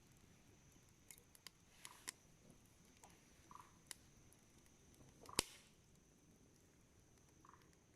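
Wood campfire crackling quietly: scattered small pops and clicks, with one sharp, louder pop about five seconds in.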